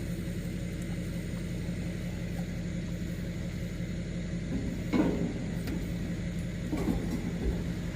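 Pickup truck engine idling steadily, with a sharp metallic clank about five seconds in and a lighter knock near seven seconds, as hitch parts are handled.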